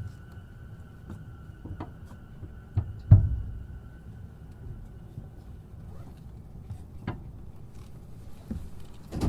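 Inside the cabin of a Sotetsu E233-7000 series commuter train: a low rumble with a thin steady whine that stops about six seconds in. Scattered knocks and clicks, with one loud thump about three seconds in.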